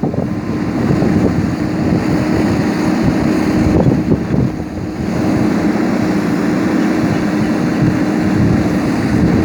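JCB backhoe loader's diesel engine running steadily, with wind on the microphone. The engine eases off briefly about halfway through, then picks up again.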